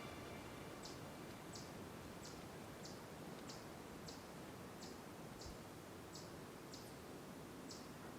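A bird repeating a short, high chirp evenly, a little under twice a second, over faint woodland background hiss.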